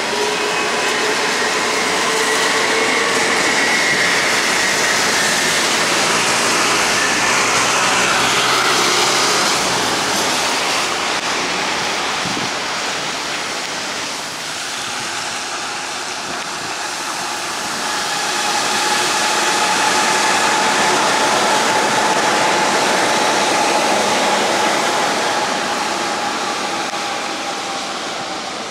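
Hankyu electric commuter train running past on the rails, wheel and running noise with a motor whine that falls in pitch as it goes by. A second train passes later, loud again with a steady whine, before fading near the end.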